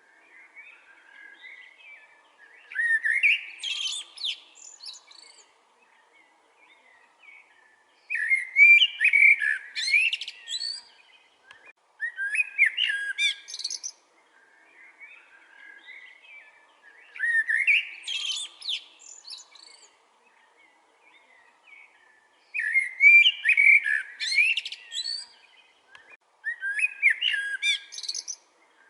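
A songbird singing a series of rich, warbling song phrases, each about two seconds long, repeated about six times with pauses of a few seconds between, over a faint steady background hum.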